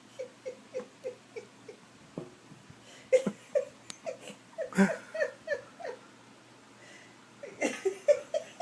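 A dog whining in runs of short, falling cries, about three a second, with a louder stretch in the middle and another near the end.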